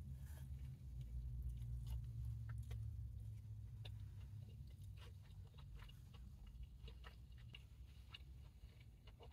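A person chewing food close to the microphone: soft, scattered wet mouth clicks and smacks, coming more often after the first few seconds, over a low steady hum.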